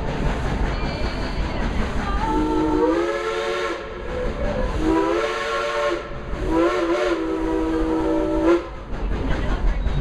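Dollywood Express steam locomotive's chime whistle blowing three blasts, the last the longest, over the steady running rumble of the train.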